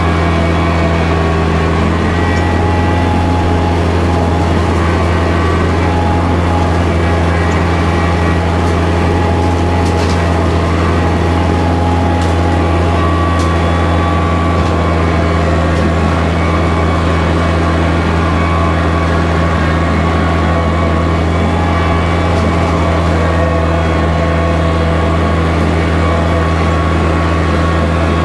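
Kubota tractor's diesel engine running at a steady speed, a constant low drone with no change in pitch.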